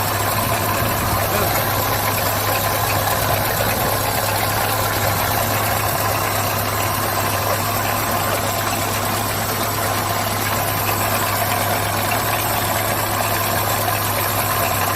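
GM Chevrolet car engine idling steadily with a noisy mechanical clatter, the noise the mechanic puts down to the engine having run low on oil, with broken pieces inside and excess play.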